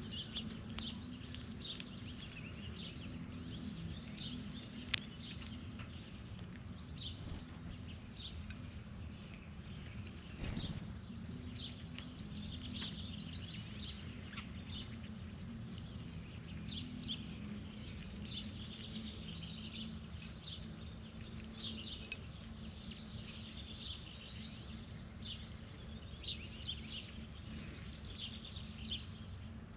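Birds chirping repeatedly, many short high calls scattered throughout, over a steady low background rumble, with one sharp click about five seconds in.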